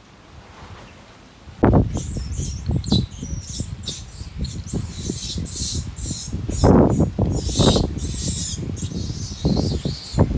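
Repeated high-pitched squeaks from a small animal over loud rustling and knocking, which start suddenly about a second and a half in.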